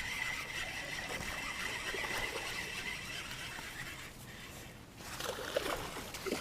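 Creek water running in a steady rushing hiss, with a faint steady high whine over it.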